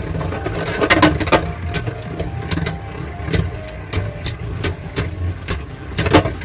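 Two Beyblade Burst tops, Super Hyperion and a Hyperion Burn prototype, spinning in a plastic stadium: a steady whir with irregular sharp clacks as they hit each other and the stadium walls, about one or two a second.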